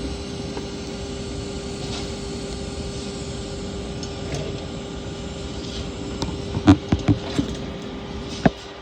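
Welding arc on stainless steel, run vertical-up: a steady hiss with a constant tone. A few sharp clicks and knocks come about two-thirds of the way in and once more near the end.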